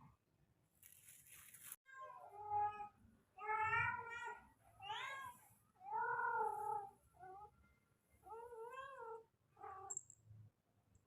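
A tomcat yowling over and over, about seven drawn-out, wavering meows roughly a second apart. It is an intact male calling for a mate.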